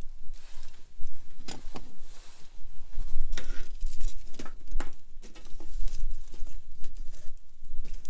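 Wood campfire crackling, with irregular sharp pops scattered through, over a low rumble that grows stronger about three seconds in.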